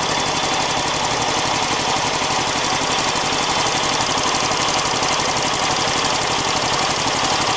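Car engine idling steadily, with a rapid, even pulsing from the running engine. The owner is hunting a faint puffing noise in it and wonders whether it is a vacuum leak.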